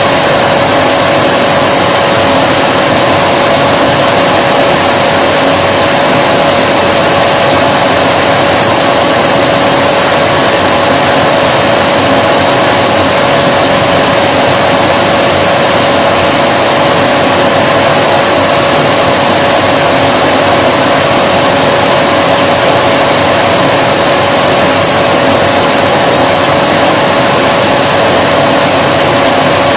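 Vacuum cleaner running steadily: an even rush of air noise with one constant mid-pitched motor tone, unchanging throughout.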